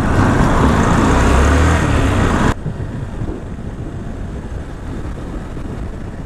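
Motorcycle riding in road traffic, with engine and wind noise on the rider's microphone. The loud first two and a half seconds cut off suddenly to a quieter, steady traffic and road noise.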